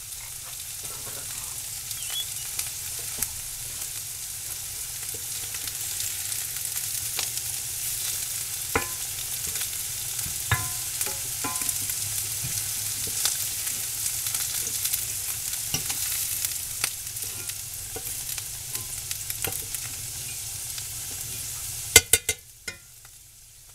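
Mushrooms and diced sweet potatoes sizzling in hot pans, a cast-iron skillet and a skillet of oil, with scattered clinks of a fork against the cast iron as the mushrooms are lifted out. A quick run of sharp clinks comes near the end, and then the sizzle falls off sharply.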